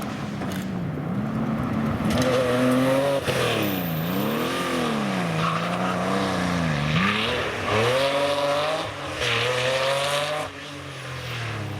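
Porsche rally car's flat-six engine driven hard, its pitch climbing and falling repeatedly as the driver lifts, downshifts and accelerates again. The note drops away sharply about ten and a half seconds in.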